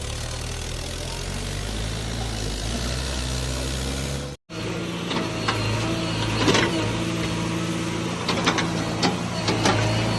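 Heavy diesel engine of earth-moving machinery running steadily. After a brief break about four seconds in, the engine runs on with a handful of sharp clanks and knocks in the second half.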